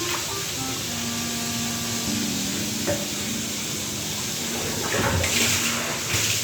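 Bath water splashing and running in a tub, with a louder rush of water about five seconds in, over soft background music.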